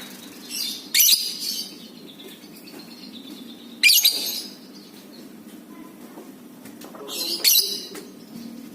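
Lovebird giving three short bursts of shrill, high-pitched chattering calls, about three seconds apart.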